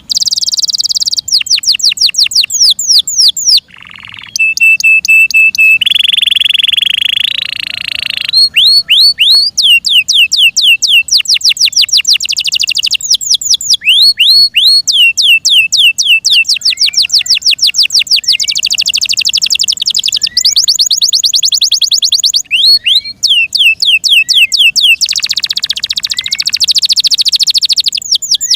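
F1 Yorkshire-cross canary singing loudly in long, fast rolls of high, downward-sweeping notes, with a held steady note and buzzy trills about a quarter of the way in.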